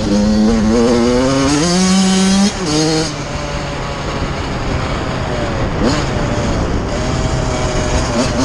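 Suzuki RM85's 85cc two-stroke single-cylinder engine revving up under throttle, its pitch climbing, then dropping abruptly about two and a half seconds in to a lower, steady note as the rider rolls along.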